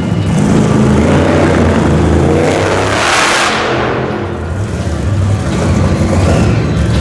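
Monster truck engine running loud and revving, with a broad rushing surge about three seconds in.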